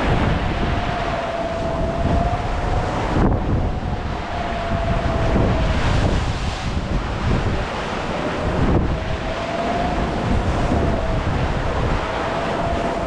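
Wind buffeting the microphone and water rushing along the hull of a sailing yacht (an OVNI 400) going close-hauled in a force 4–5 breeze. A thin, wavering whistle comes and goes over the rush.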